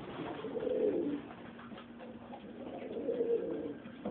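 Domestic pigeons cooing: two low, wavering coos, the first starting just after the start and the second about three seconds in.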